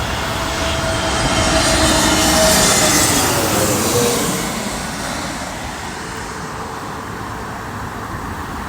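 Airbus A320 jet passing overhead on approach to land: a roar of engines with a whine that drops in pitch as it goes past, loudest about two and a half seconds in and then fading.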